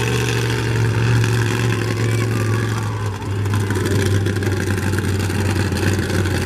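Monster truck engine running loud and steady, its pitch dropping a little with a brief dip in level about three seconds in.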